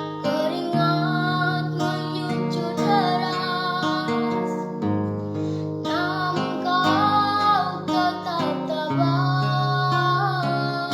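A woman singing to acoustic guitar, with a short pause in the voice about halfway through while the guitar plays on.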